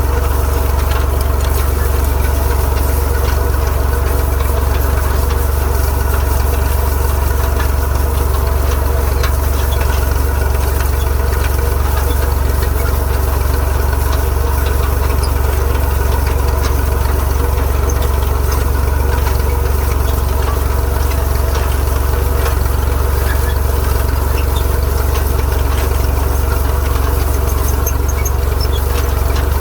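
IMT 539 tractor's three-cylinder diesel engine running steadily at an even speed, working a rotary rake.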